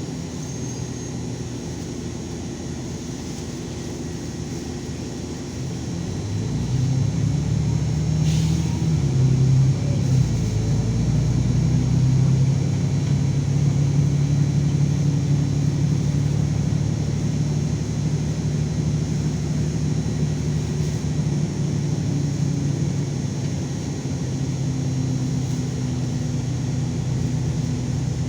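LiAZ 5292.22 city bus engine and drivetrain running, heard from inside the bus; the engine hum grows louder about six seconds in and then holds steady. A single short knock about eight seconds in.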